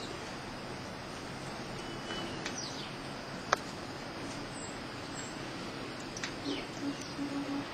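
Steady outdoor hiss during a snowstorm, with two short falling bird chirps and a sharp click about three and a half seconds in. A few short low sounds come near the end.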